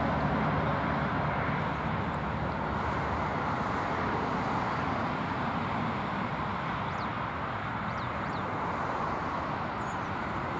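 Steady road-traffic noise, with a few faint, high bird chirps from about seven to ten seconds in.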